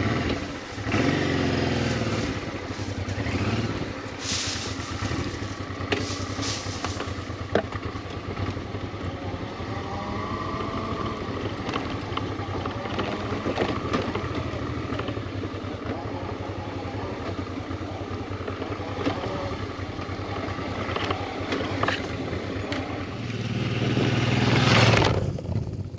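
Honda Transalp 650's V-twin engine running as the motorcycle is ridden over a rough mountain track. The engine revs up about a second in and again near the end, with scattered knocks and clatter along the way.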